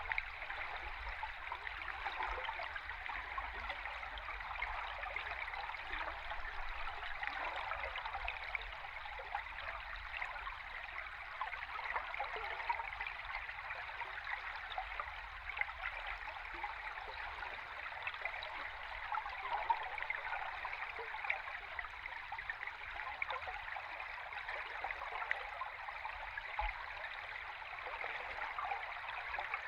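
A river stream heard underwater: a steady rush of flowing water, flecked with fine crackling.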